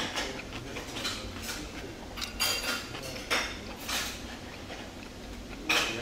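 Close-up wet chewing of a mouthful of juicy beef sausage: separate short smacking squelches, a few each second at first, with a longer pause near the end before one more.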